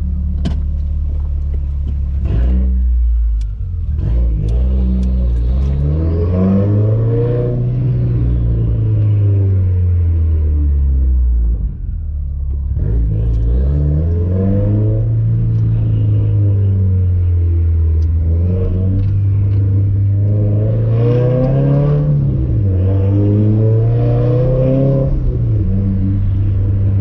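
Nissan 240SX engine running through an ETS Extreme catback exhaust while driving, repeatedly revving up and dropping back as it accelerates and shifts gears, with short dips between pulls. The engine is not yet warm.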